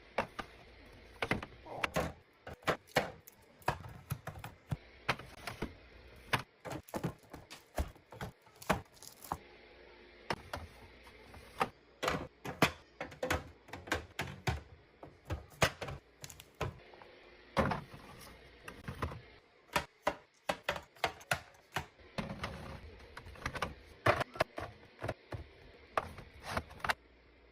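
Food containers and packages being set down and arranged on fridge shelves: an irregular run of light clicks, taps and knocks, several a second at times.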